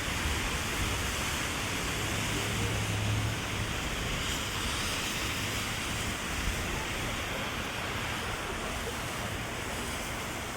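Heavy rain falling steadily, an even dense hiss. A low rumble swells briefly about two to three seconds in.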